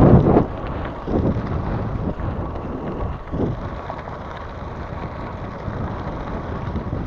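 Wind buffeting the microphone of a camera riding along on a moving bicycle: a steady low rumble with stronger gusts right at the start, about a second in and at about three and a half seconds.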